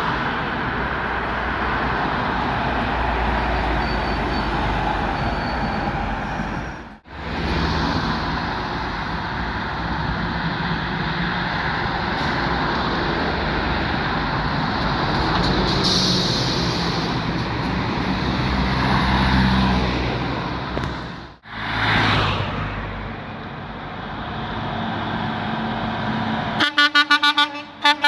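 Heavy trucks passing close by, with engines running and tyre noise. Near the end a truck horn sounds in a quick run of short blasts, about five or six a second.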